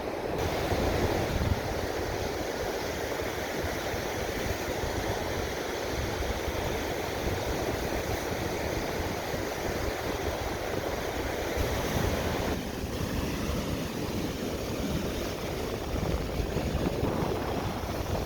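Lake Michigan waves washing onto the shore, a steady rushing, with wind buffeting the microphone.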